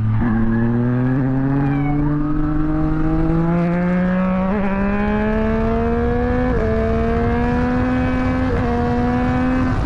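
A motor vehicle's engine accelerating hard, its pitch climbing steadily through the gears, with brief dips at each gear change every couple of seconds in the second half.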